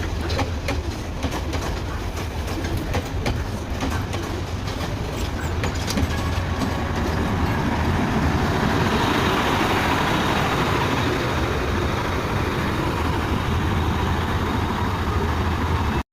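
Class S9 diesel multiple unit running, with a steady low engine drone and wheels clicking over rail joints. After about six seconds the clicks thin out and a steady, slightly louder rushing noise takes over.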